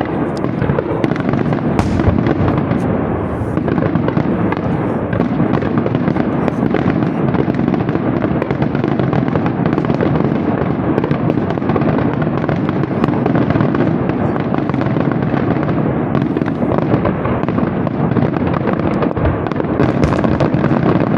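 Fireworks display: a dense, continuous barrage of bursting aerial shells and crackling, with bangs overlapping so closely that they merge into a steady loud rumble and crackle.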